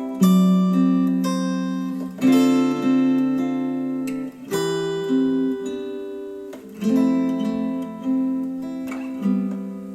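Acoustic guitar music played back through bookshelf speakers: a strummed chord about every two seconds, each left to ring and fade before the next.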